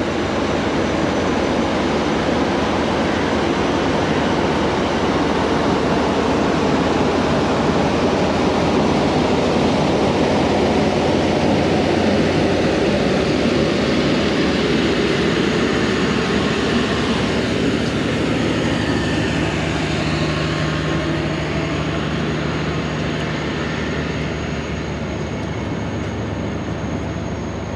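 Millat Express passenger train pulling out of the station, its rolling noise loud and steady, then slowly fading over the last several seconds.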